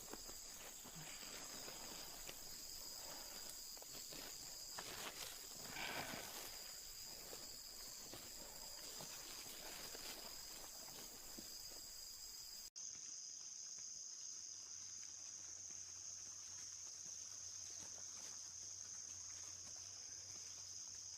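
Faint rainforest ambience: insects trilling steadily in a high pitch, with a few faint rustles about five seconds in. About two-thirds of the way through the ambience cuts abruptly to a different steady insect drone over a low hum.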